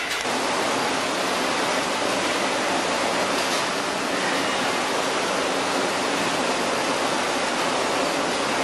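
Chili milling and processing machinery running: a steady, even rushing noise without a clear tone or beat.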